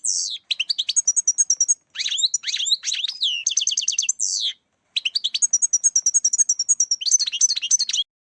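European goldfinch song: fast twittering phrases of rapidly repeated high notes and trills, with short breaks between phrases, cutting off suddenly near the end.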